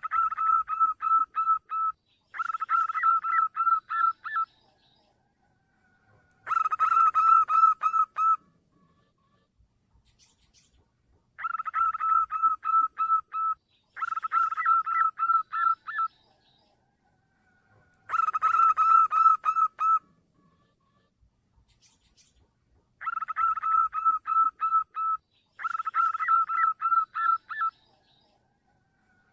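Zebra dove (perkutut) call lure recording: bursts of about two seconds of rapid, pulsing notes, separated by short silent gaps. The same three-burst sequence repeats roughly every eleven to twelve seconds, as a looped lure call does.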